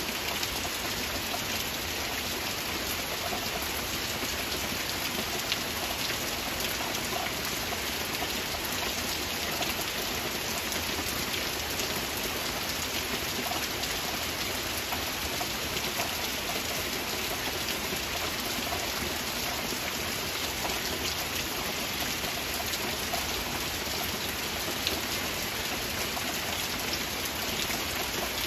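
Heavy rain falling steadily: an even hiss with many small drop taps scattered through it.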